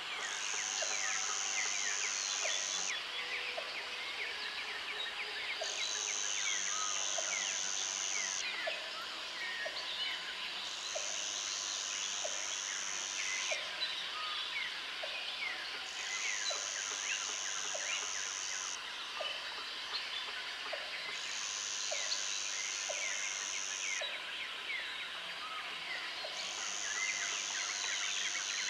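Jungle ambience: an insect's high, even buzz switching on for about three seconds at a time, roughly every five seconds, over a dense chorus of bird chirps and calls, with a short lower note repeating about once a second.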